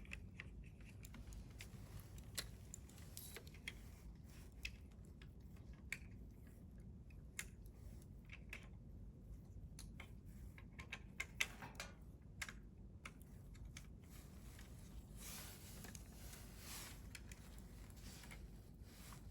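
Wood fire crackling faintly: irregular sharp pops and snaps, with a quick run of them about halfway through and a soft hiss later.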